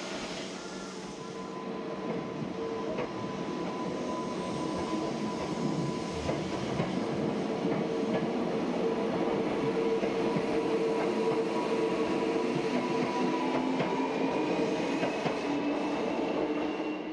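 Train running, a steady rumble carrying several sustained whining tones, with a higher tone slowly rising in pitch in the last few seconds.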